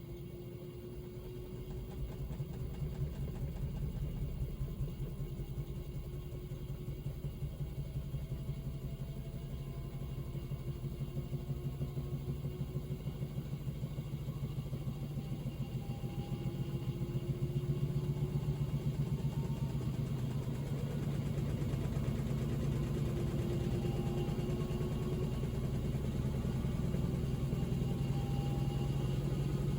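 Panasonic NA-VX9300L drum-type washing machine running, its drum spinning up: a low hum with a fast rhythmic pulse, a motor whine slowly rising in pitch, the whole growing louder.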